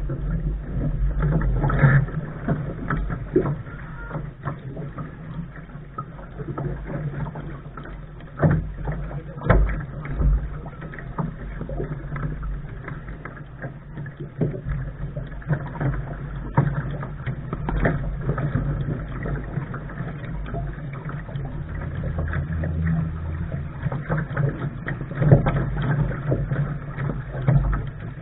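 Lark sailing dinghy under way: water sloshing against the hull over a steady low rumble, with scattered sharp knocks.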